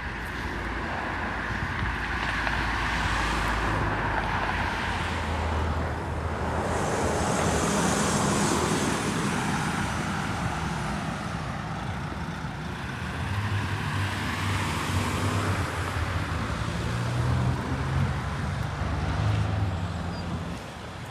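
City street traffic: motor vehicles passing one after another, with tyre and engine noise rising and falling and a low engine hum in the second half.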